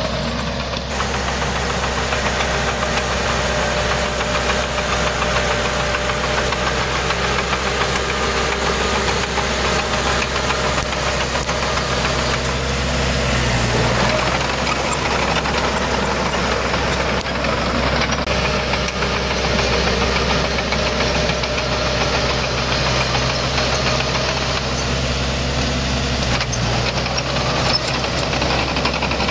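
Heavy diesel earthmoving engine running steadily, revving up briefly twice, once near the middle and once near the end.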